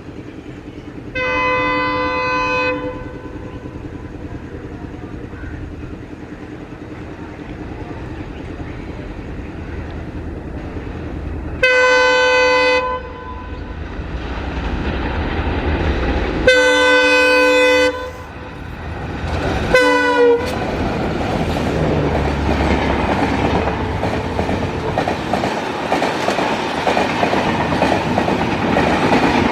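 Twin WDM-3A diesel locomotives sound their horn four times as they approach at speed, the last short blast dropping in pitch as they pass. The diesel engines' rumble builds, then the express train runs through with steady clickety-clack of wheels over rail joints.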